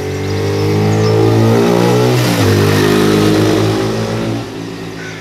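Sinnis Bomber 125's air-cooled single-cylinder four-stroke engine (Suzuki-derived GS125) pulling hard as the bike rides past, revs rising. About two seconds in, as it passes, the pitch drops, then climbs again, and the sound falls away as the bike rides off near the end.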